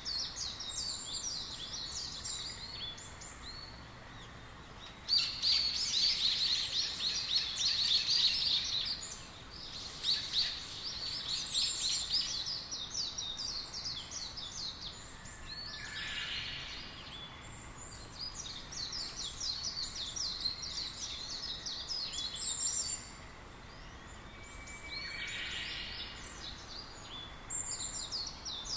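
Small birds chirping and twittering in a dense high chatter that comes in bouts of a few seconds with short pauses, over a steady faint background hiss.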